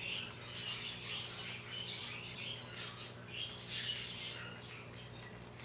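Many caged pet birds (small parrots and parakeets) chirping in a bird room, lots of short overlapping calls, over a steady low hum.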